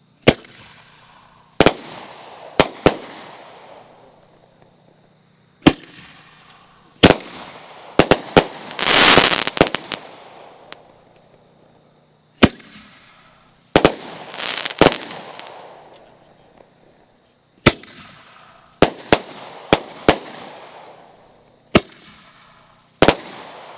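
Multi-break aerial firework shells bursting in a series of sharp bangs, mostly in close clusters of two to four, each bang trailing off in a fading crackle and sizzle. About nine seconds in, a dense crackling burst runs for over a second.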